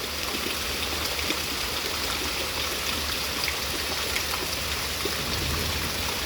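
Steady heavy rain with scattered drips and patter.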